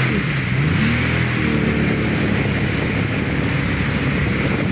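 Jet ski engine running under way, its pitch rising and falling with the throttle, over a steady rushing hiss.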